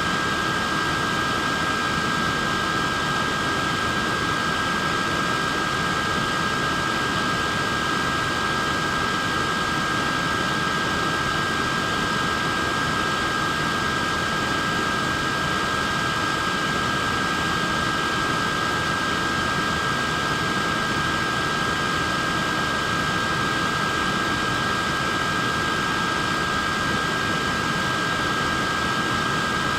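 Wearable neck fan running steadily: an even rush of air with a constant high motor whine in two close pitches.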